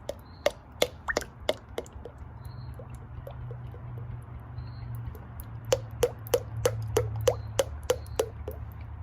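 Two runs of sharp taps, about three a second, one at the start and a longer one near the end, over a steady low hum.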